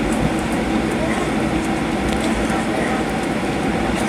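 Steady rush of jet engines and airflow heard inside the cabin of a Boeing 737-800 airliner, even in level throughout.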